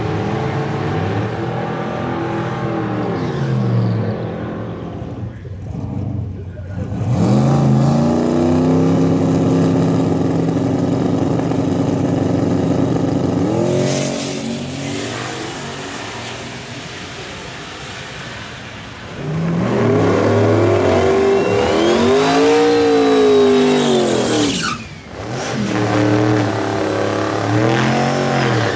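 High-performance car engines accelerating hard, loud, the pitch climbing and dropping several times with a long stretch held at high revs. One engine sweeps up and back down twice in the second half.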